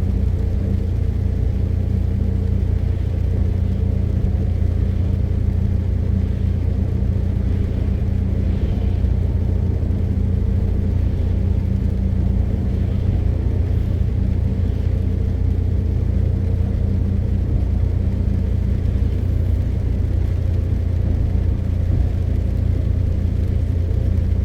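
MAN TGX 520 truck's straight-six diesel engine running steadily, with drive and road noise heard from inside the cab as a low, even rumble with a steady hum.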